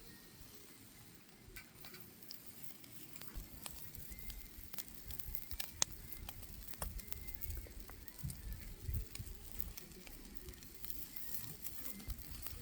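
Firewood fire crackling faintly, with scattered sharp pops and one louder snap about halfway through.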